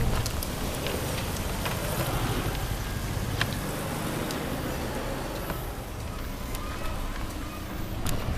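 Steady low rumble and hiss of a bicycle ride along city streets, with scattered clicks and ticks.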